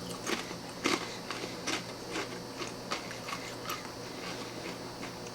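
A person chewing a crunchy pumpkin seed tortilla chip: a series of crisp crunches about two a second, loudest at first and fading out over the first few seconds as the chip is ground down.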